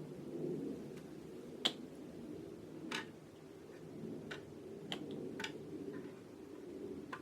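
Irregular sharp clicks and taps of small hobby tools and plastic kit parts, about six in all, over a steady low hum.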